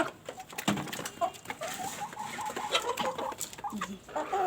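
Domestic chickens clucking in short, scattered calls, with many sharp clicks and taps mixed in.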